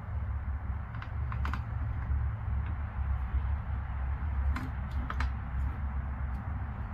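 A few scattered light clicks and knocks, the clearest about a second and a half in and around five seconds in, over a steady low rumble.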